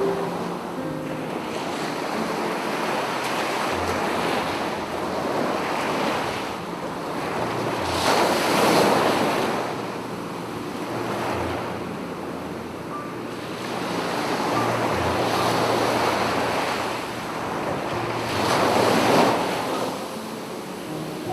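Sea waves breaking and washing up on a beach, the surf swelling loudest about eight seconds in and again near the end.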